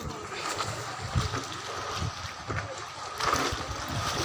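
Wind buffeting the microphone at the water's edge, with a faint steady high hum and a few light knocks.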